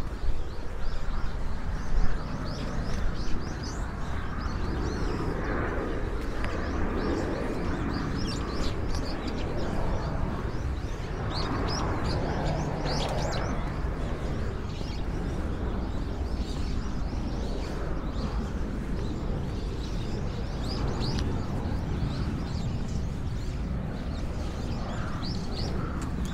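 Small birds chirping again and again over a steady low outdoor rumble, with a few louder knocks in the first few seconds.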